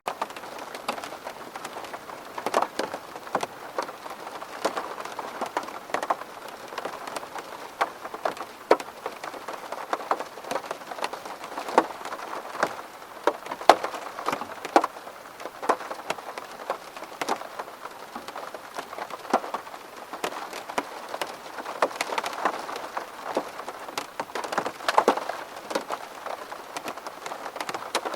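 Steady rain on a window pane, with many separate drops ticking sharply on the glass over an even hiss of rainfall.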